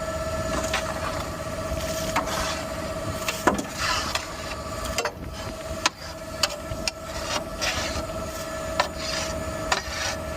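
Garbage truck with a steady high-pitched tone sounding, which breaks off briefly about halfway, over a low rumble and scattered knocks, clunks and rattles.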